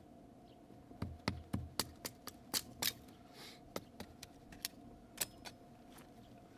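A quick, irregular run of about a dozen sharp clicks and knocks, starting about a second in and dying away near the end, over a faint steady hum.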